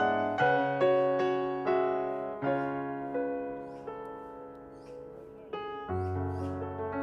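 Background piano music: gentle chords struck every half second or so, each note fading, with a softer stretch partway through and a deep bass note coming in near the end.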